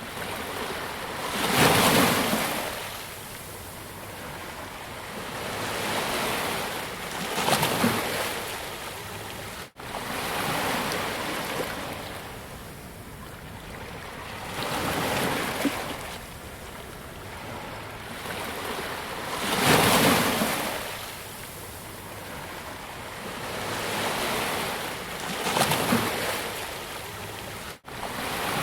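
Sea waves breaking and washing up a beach, surging about every five to six seconds between a steady wash. The sound cuts out for an instant twice.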